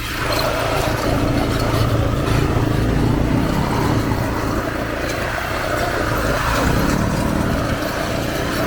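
ATV engine running under way, a steady engine note with rumble underneath.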